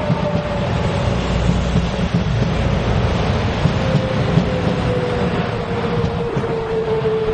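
Commuter electric train running past close by and away, a dense rumble with clattering wheels and a tone that slowly falls in pitch, with a container freight train running on the far track.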